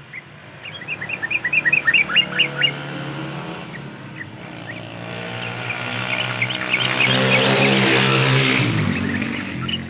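A motor vehicle passes by: its engine grows louder to a peak about eight seconds in, then drops in pitch and fades. Before it, a yellow-vented bulbul gives a quick series of short chirps, and more chirps sound faintly under the engine.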